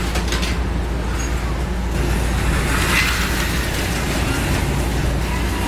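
HO-scale slot car running on the track, its small electric motor whining and swelling as it passes about three seconds in, over a steady low hum.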